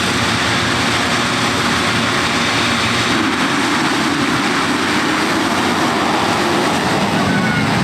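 Motocross bikes racing, their engines running hard and revving together in a steady, dense din.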